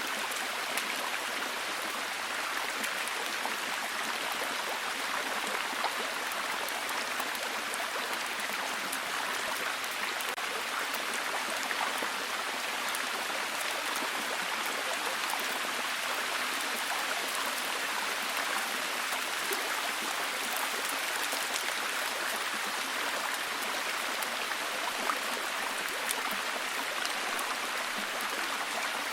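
Steady, heavy rain: a dense hiss of falling water with many fine drop ticks, unchanging throughout.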